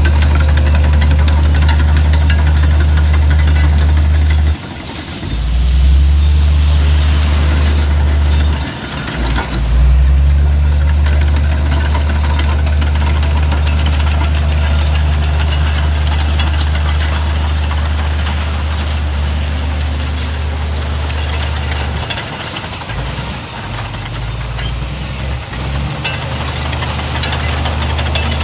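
Heavy earthmoving machine's diesel engine running steadily under load. It drops off briefly about four and a half seconds in and again near nine seconds, then wavers unevenly from about twenty-two to twenty-six seconds.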